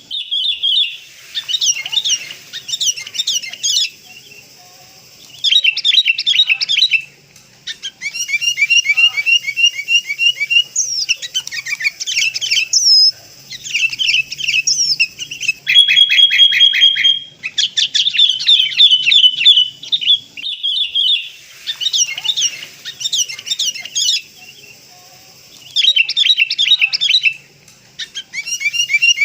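Sooty-headed bulbuls singing and calling: bursts of quick, repeated chirping phrases broken by short pauses, played as a lure recording.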